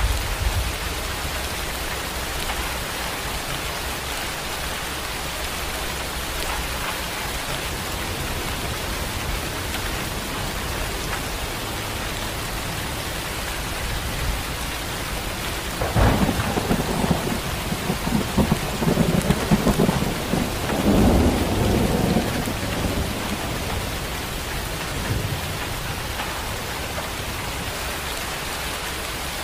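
Steady rain falling, with a sharp thunderclap just past halfway that rolls on as rumbling thunder for about seven seconds before fading back into the rain.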